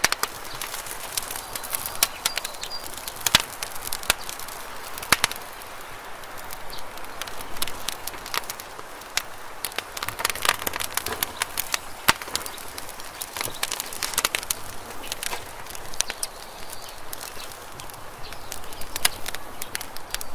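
Campfire burning, with frequent sharp wood pops and crackles over a soft steady hiss.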